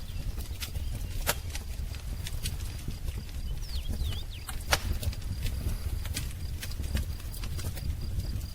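Wood fire crackling, with irregular sharp pops over a steady low rumble. A few quick bird chirps come about four seconds in.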